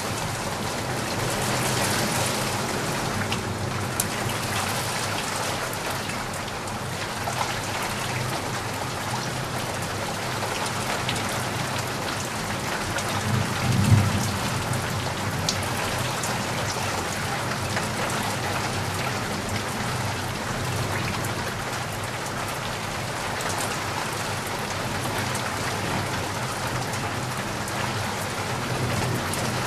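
Steady rain falling, with a few sharper drop ticks and a brief low rumble about halfway through.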